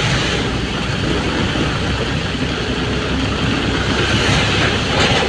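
A vehicle's steady road and engine noise, a continuous rushing sound with no clear beat or pitch.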